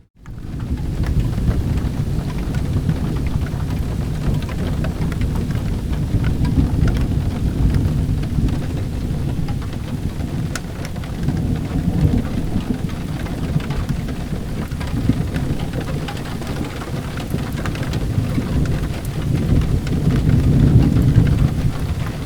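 Steady rain with low rolling thunder, the rumble swelling about halfway through and again near the end; the sound fades back in from a brief gap at the very start.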